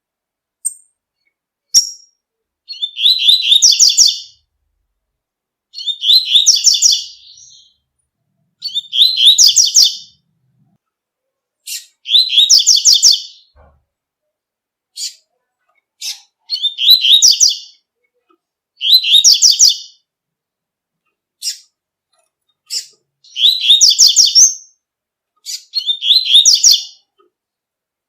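Double-collared seedeater (coleiro) singing the tui-tui song: eight short, high phrases of rapid repeated notes, one every two to three seconds, with single sharp chip notes between them.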